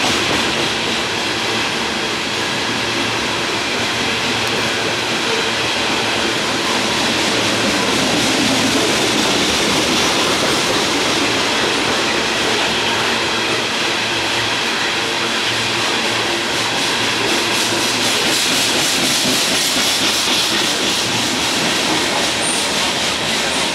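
Loaded coal hopper cars of a long freight train rolling past: a steady, loud noise of steel wheels running on the rails.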